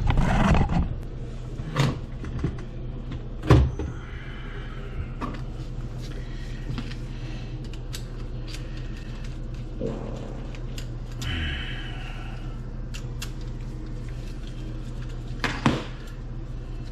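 Scattered knocks and clicks of handling, the loudest about three and a half seconds in and another near the end, over a steady low hum.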